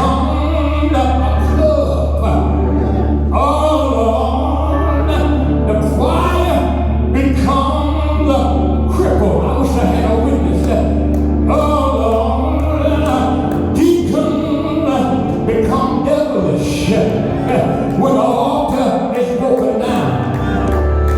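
Gospel music with a singing voice over a steady low bass note, which drops away about two-thirds of the way through.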